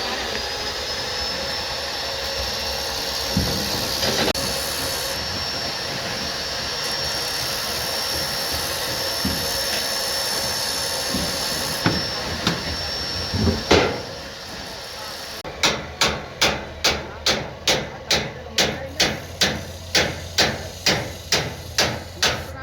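Machinery running steadily with a high, even whine, with a few scattered knocks. About two thirds of the way in it gives way to regular hammer blows on metal or concrete, roughly two and a half strikes a second.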